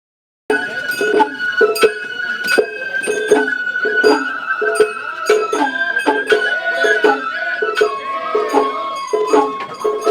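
Festival hayashi music from the Sawara festival floats: a high flute holding long notes, stepping down in pitch about eight seconds in, over frequent sharp drum and gong strikes. It cuts in about half a second in after a brief dropout.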